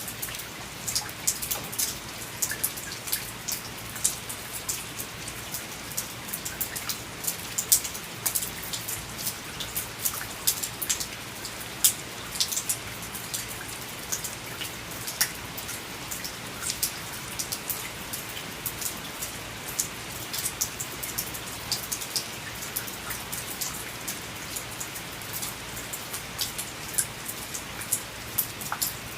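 Steady rain falling: a constant hiss of rain with many sharp, separate drop impacts scattered through it.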